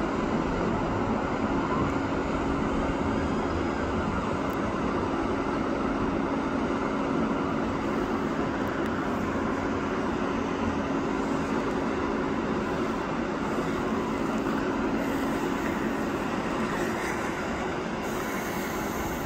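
LNER Azuma high-speed train running along the track with a steady hum and rumble as it moves away.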